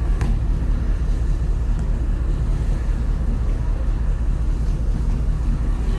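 Steady low rumble aboard a moving cruise ship.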